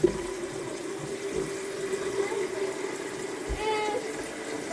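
Water running from a sink tap with a steady pitched whine, fading out about three seconds in, followed by a short voiced call near the end.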